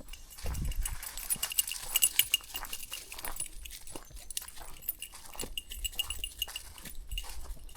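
Dogs moving close by on a country walk, mixed with footsteps and scuffing on the path. A run of small high ticks repeats through it.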